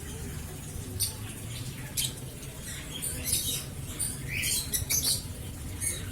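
Caged aviary birds chirping and squeaking in short, high-pitched bursts, bunched several together in places, over a low steady rumble.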